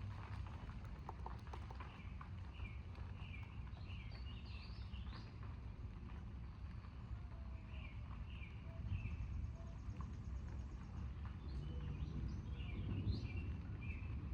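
Small birds chirping in short, scattered calls over a steady low rumble of wind or distant thunder, which swells twice in the second half.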